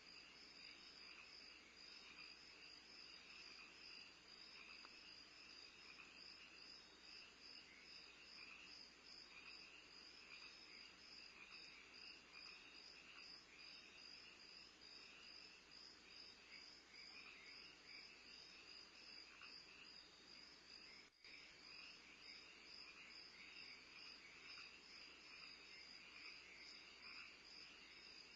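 Faint, steady chirping of crickets: a regular high pulsing with a lower, busier chirring beneath it, briefly cut off about three-quarters of the way through.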